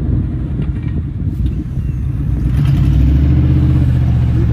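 An engine running steadily, easing off about a second in and coming back up to full strength about halfway through.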